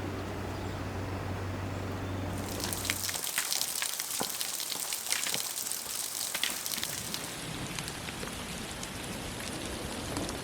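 A steady low hum for about the first three seconds, then an abrupt change to rain falling, pattering with scattered sharper drop hits.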